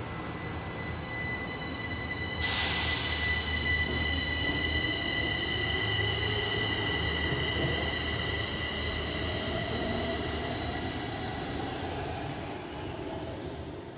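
Kaohsiung Metro Red Line train running at a station, with several steady high-pitched tones and a lower whine that rises in pitch over several seconds. A short burst of hiss comes about two and a half seconds in.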